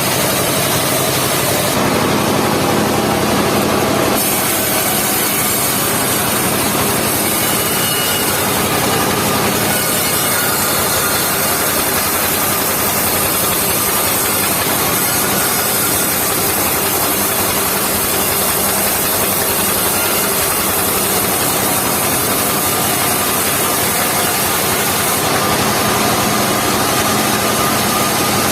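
Engine-driven mobile circular sawmill running steadily, its blade cutting through a log.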